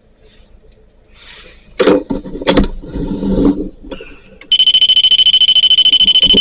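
REM pod going off: its proximity alarm sounds as a loud, high electronic tone pulsing very rapidly, starting about two-thirds of the way in. Before it come a few knocks and rustles.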